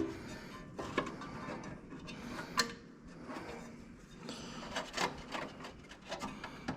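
Scattered sharp clicks and knocks of hand tools and car parts being handled during repair work, the loudest about two and a half seconds in, over quiet background music.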